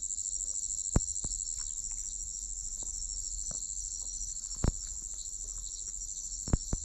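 A chorus of night insects keeps up a steady, high-pitched trill, with a few sharp clicks or knocks about a second in, midway, and near the end.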